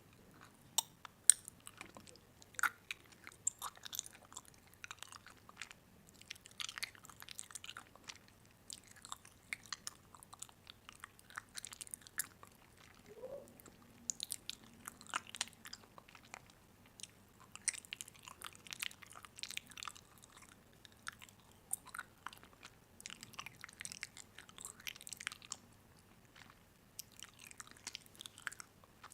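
Close-up chewing and crunching of crisp food, in irregular clusters of crackly bites with short pauses between them.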